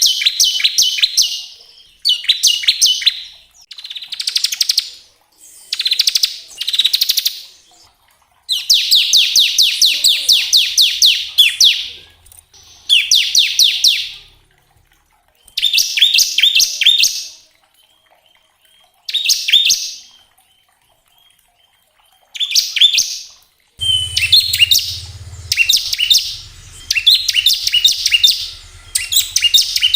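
Bar-winged prinia (ciblek) singing its 'ngebren' song: bouts of very rapid, machine-gun-like repeated high notes lasting one to three seconds, separated by short pauses. A low hum comes in near the end.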